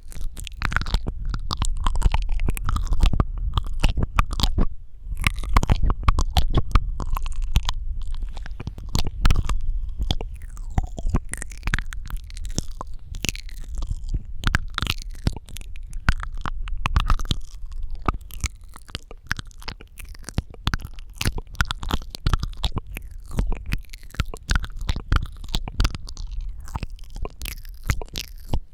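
Close-miked wet mouth sounds: rapid tongue clicks and lip smacks in a dense, irregular stream. A low rumble runs under them for roughly the first two-thirds, then drops away, leaving sparser clicks.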